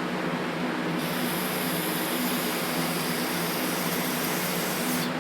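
Shop compressed air from an air-hose blow gun hissing as it blows out the passages of a Zenith carburetor, clearing out blasting sand. The hiss starts about a second in and cuts off near the end.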